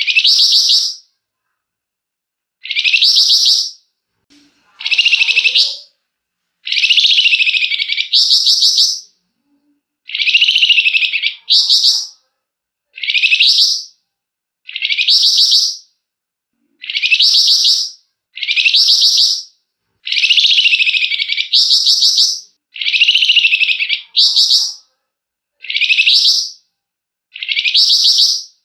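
A flamboyan songbird singing 'ngebren': it repeats a rapid, rattling trill phrase about fifteen times, each phrase about a second long, with short pauses between them.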